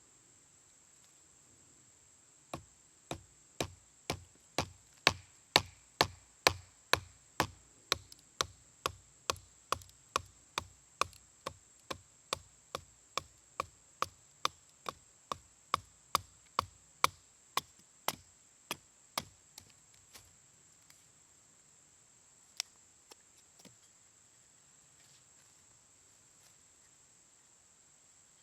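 Wood being struck in a steady run of about thirty sharp knocks, roughly two a second, loudest in the first few seconds; they stop about twenty seconds in, with a few lone knocks after. Insects chirp steadily behind.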